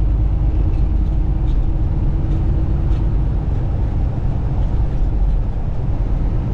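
Semi truck driving: a steady low rumble of engine and road noise, with a faint steady hum above it.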